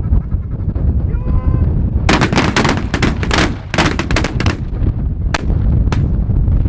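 Volley of shotgun blasts from several hunters firing at once, about a dozen shots packed into two and a half seconds, then two more single shots about half a second apart. A single honking waterfowl call sounds shortly before the volley, over heavy wind rumble on the microphone.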